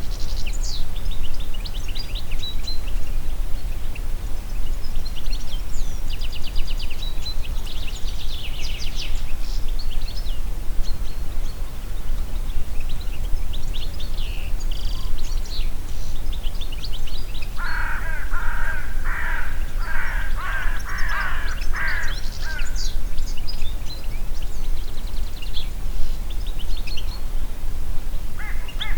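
Forest birds singing high chirps and trills over a steady low wind rumble. In the middle a run of about eight lower, crow-like calls comes in quick succession, and a similar run starts again near the end.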